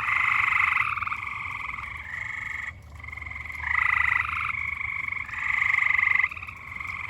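Chorus of frogs calling in long, pulsing trills that overlap and follow one another. Each trill lasts about a second or two.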